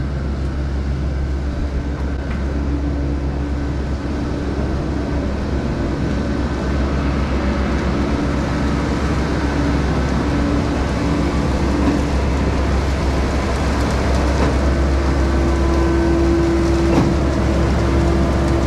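Heavy diesel equipment at a concrete pour, the skid-steer-powered concrete pump and its engine, running steadily with a low hum and a whine that comes and goes, then holds steady and a little louder near the end.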